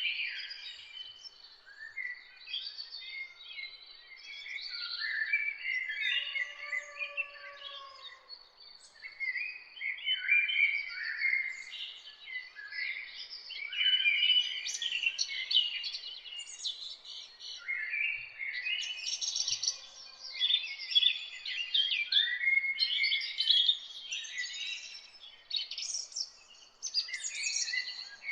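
Several songbirds singing and chirping at once, a dense run of overlapping quick chirps and warbled phrases, over a faint steady background hiss.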